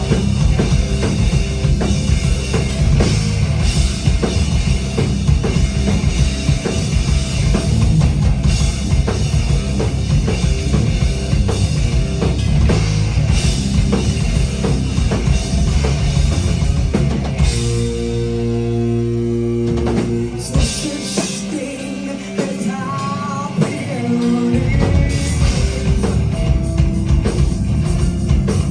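A rock band with a drum kit and a woman singing. About two-thirds of the way through, the drums drop out for several seconds of held chords, then the full band comes back in.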